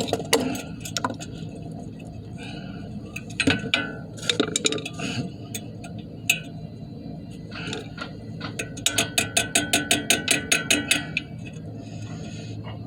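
Metal clinks and taps of tools and brake hardware while the caliper's spring retaining clip is worked into place. Near the end comes a quick, even run of clicks, several a second, for about two seconds.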